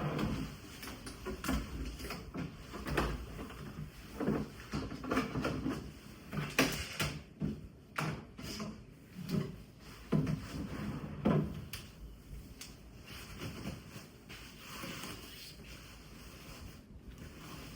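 Household handling noises: a run of knocks, taps and clicks as things are moved and set down, busiest in the first twelve seconds and sparser after.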